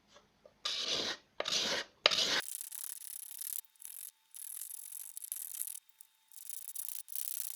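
A hand-held abrasive tool rubbing on wood in separate strokes. There are three full strokes in the first couple of seconds, then a run of lighter, hissier strokes of uneven length.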